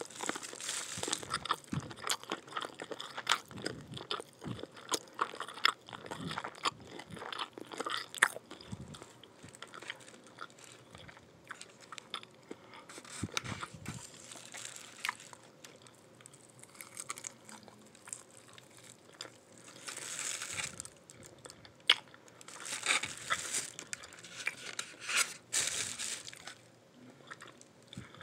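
Close-up eating sounds: a person biting into and chewing crispy fried chicken, with irregular crunches and clicks and a few denser bursts of crunching in the later part.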